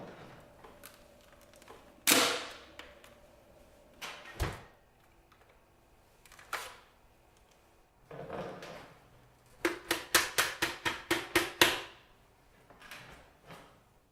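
Plastic parts of a Dyson cordless vacuum being handled, unclipped and refitted: a loud sharp click, a low knock, then a quick run of about ten clicks at roughly five a second.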